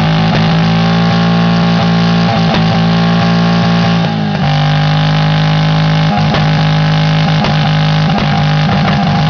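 2.0-litre Peugeot engine held flat out at steady high revs to run it to destruction, with scattered sharp cracks. The revs dip briefly about four seconds in, then it is held again at a slightly lower pitch.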